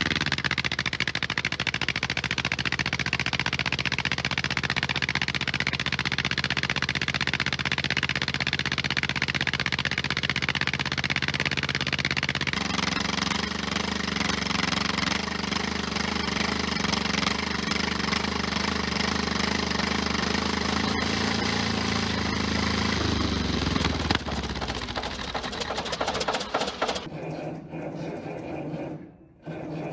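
T-170 crawler bulldozer's diesel engine running in deep frost after a cold start, with a steady rhythmic clatter. Its note changes about twelve seconds in, and the sound weakens and falls away over the last few seconds.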